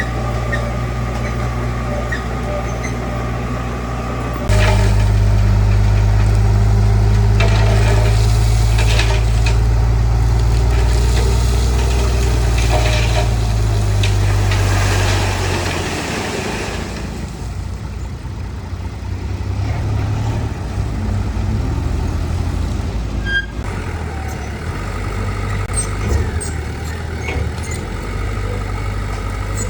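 Heavy diesel construction machinery running steadily. The engine gets abruptly louder about four and a half seconds in, holds for about eleven seconds, then drops back to a lower, uneven running sound.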